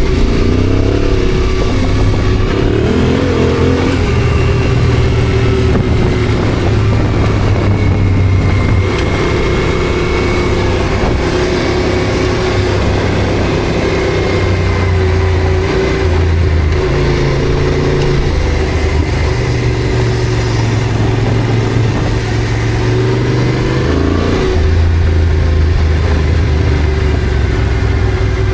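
Yamaha Ténéré adventure motorcycle engine running under way, its note stepping up and down several times as the throttle and gears change, with a steady rush of wind and road noise.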